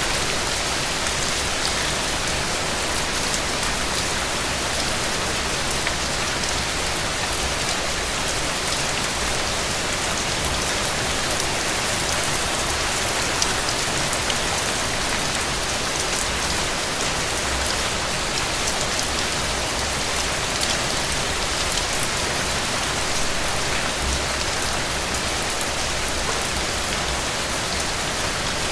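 Steady rain falling on a surface: an even hiss full of small drop ticks, with no thunder heard.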